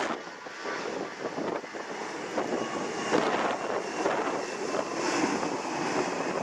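Hurricane-force wind gusting hard across the microphone, with a faint steady aircraft engine whine through the middle of it.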